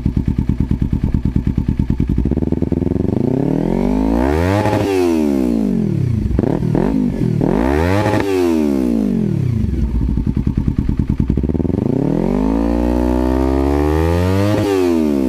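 Kawasaki Ninja 300 parallel-twin with an M4 full exhaust, idling and then blipped up three times, the revs rising and falling each time. The third rev is held longer before it drops back to idle.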